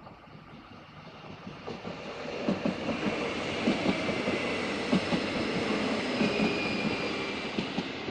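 Renfe Civia series 463 electric commuter train going by, growing louder over the first two seconds and easing off near the end. Its wheels click over the rail joints, with a steady high whine above the rumble.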